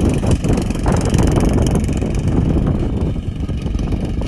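Small single-cylinder lawnmower engine running loud and ragged, with an uneven, clattering beat. The engine is damaged: BBs have got inside it and the connecting rod is bent.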